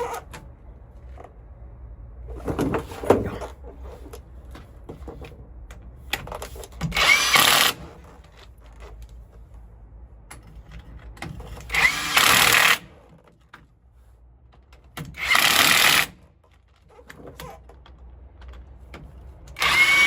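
Impact wrench running down bolts in four bursts of about a second each, with a short whine as each burst starts.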